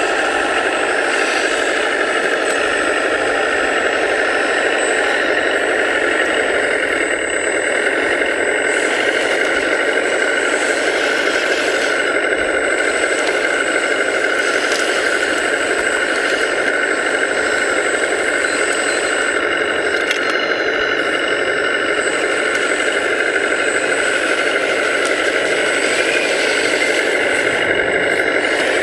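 Radio-controlled construction machine model running, a steady mechanical whine and hum from its small electric motor and pump drive, with no deep bass.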